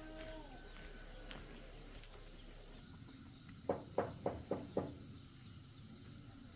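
Insects, crickets or cicadas, trilling steadily in a high pitch. A short pitched call falls away in the first second, and about four seconds in comes a quick run of five sharp knocks.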